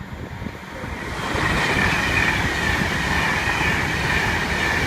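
A train passing on the line, its wheel and rail noise building about a second in and then holding loud and steady.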